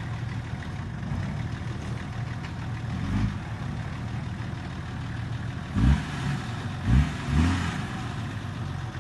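Truck engine idling with a steady low rumble, revved briefly four times, three of the revs close together in the second half.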